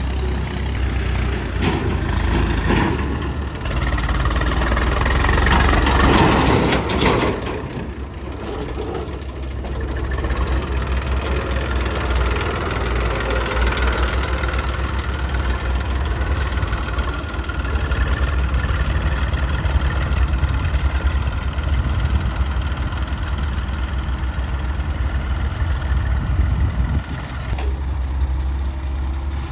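Diesel tractor engine running steadily, with a louder stretch about four to seven seconds in.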